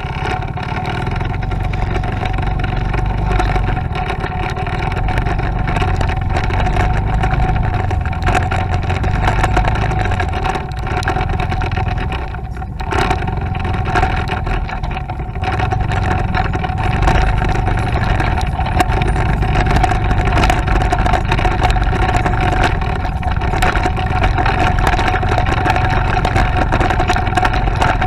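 Motorcycle engine running steadily as the bike is ridden along, with a brief dip in level a little before halfway.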